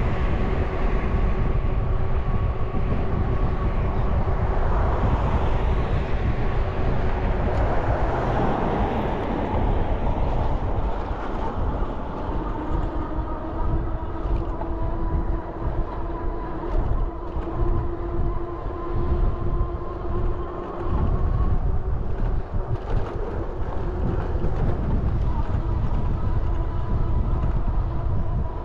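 A train running: a continuous low rumble with steady humming tones, the lower hum settling slightly lower in pitch about halfway through.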